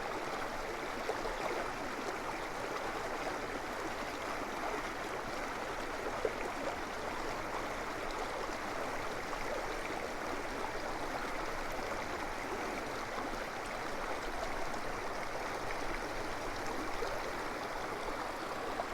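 Creek water flowing steadily through a stone aqueduct tunnel, a continuous rushing and gurgling.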